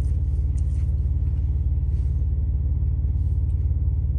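Semi-truck diesel engine idling with a steady low rumble, heard from inside the cab.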